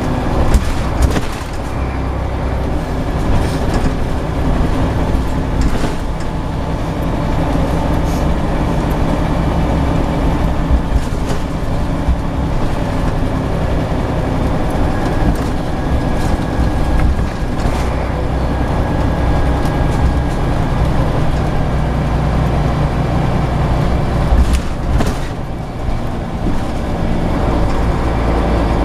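Scania CN94UB Omnicity single-deck bus running along, its diesel engine a steady low drone whose note shifts now and then, with scattered short knocks and rattles.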